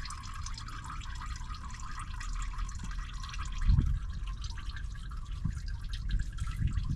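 Engine oil draining through a drain hose into a catch container, a steady trickling, splattering flow. It is the draining stage of the oil change. A dull thump a bit over halfway through.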